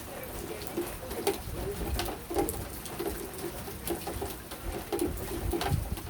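Rain falling in a backyard, with scattered drips and pattering, while a pigeon coos over and over in soft low hoots.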